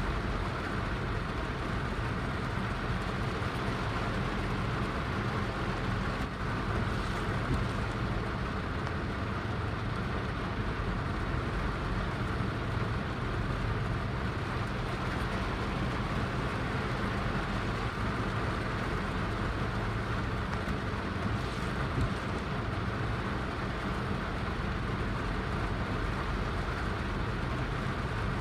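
Heavy rain falling steadily: an even, unbroken hiss with a deep rumble underneath.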